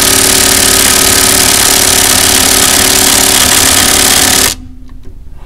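Loud power tool running steadily, a rasping mechanical noise with a faint steady hum in it, cutting off abruptly near the end.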